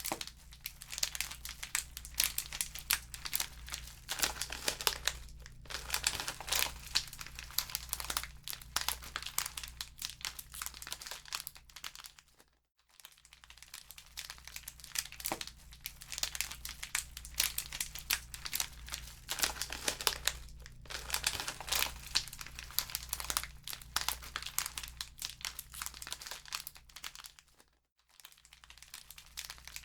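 Wood fire in a fireplace crackling, with dense irregular pops and snaps. The sound dips briefly to near silence twice, about a third of the way in and near the end.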